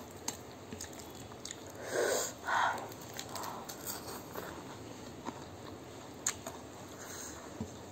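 Close-up eating sounds: chewing and wet mouth noises while a hand mixes rice and crisp pieces on the plate, with scattered small clicks. Two louder mouth sounds come about two seconds in.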